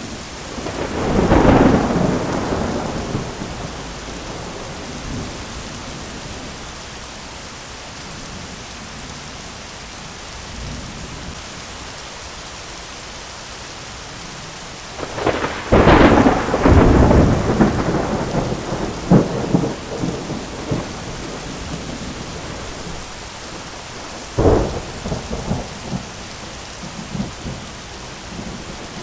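Steady rain with thunder. One peal about a second in, a long crackling roll from about halfway, and a sharper crack near the end that rumbles away.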